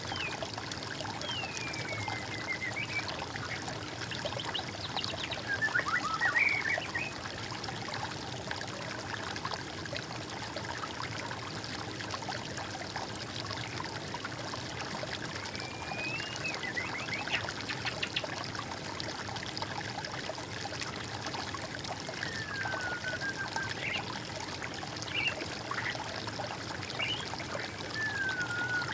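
Steady trickle of flowing water, with a songbird giving short falling whistled phrases every few seconds and a louder, busier burst of song about six seconds in.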